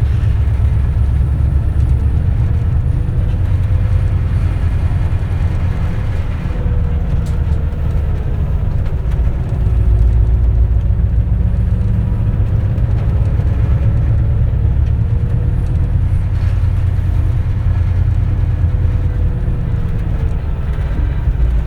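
A 2004 CNG city bus heard from inside the cabin while under way: a heavy, steady low engine and road rumble with a faint whine that rises and falls as the bus speeds up and slows. The rumble grows louder about ten seconds in.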